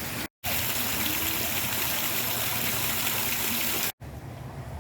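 Steady rushing of falling or flowing water, like a waterfall or stream. It cuts in abruptly about half a second in and cuts off abruptly near the end.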